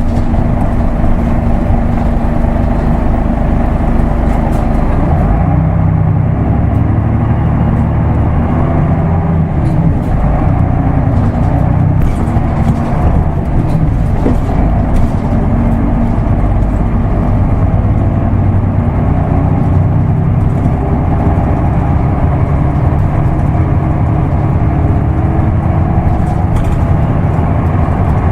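Isuzu Erga Mio bus's diesel engine running under way, heard from inside the cabin with road noise. Its note rises and falls, changing about five seconds in as the manual gearbox is worked.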